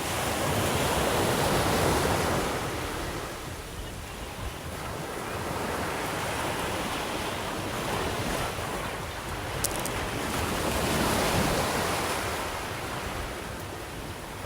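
Sea waves breaking on the shore and washing back, swelling loudest about two seconds in and again around eleven seconds. A brief faint click comes near ten seconds.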